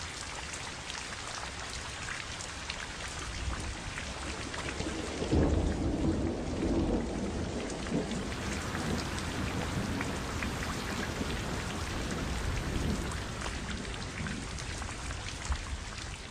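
Steady rain with individual drops ticking, and a roll of thunder that breaks in about five seconds in and rumbles on, slowly fading.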